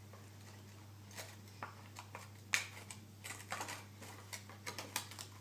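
Toy car wash and toy vehicles being handled: light, irregular clicks and taps that come thicker in the last couple of seconds, over a low steady hum.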